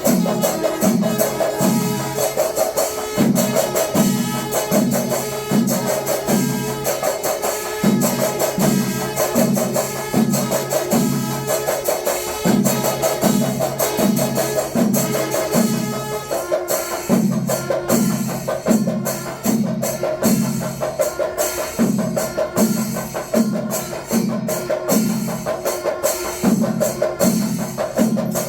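Rhythmic percussion music: drums struck about three times a second in runs broken by short pauses, over a steady metallic ringing, with the texture changing about two thirds of the way through.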